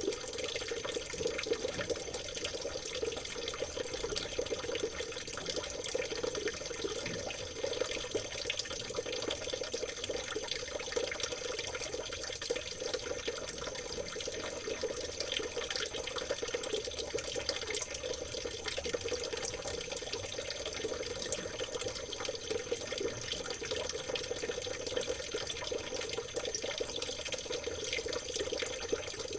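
Water trickling and splashing steadily, like a small stream babbling over stones, with a dense patter of tiny splashes.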